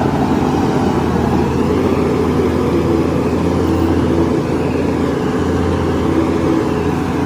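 Heavy earthmoving machine's diesel engine running steadily, a loud continuous drone with a deep hum.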